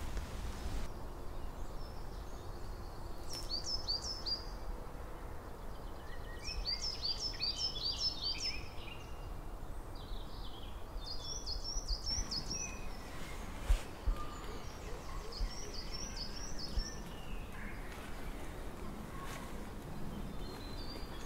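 A songbird singing: several short phrases of quick, high, falling notes, one every few seconds, over a steady outdoor hiss, with a single sharp knock about 14 seconds in.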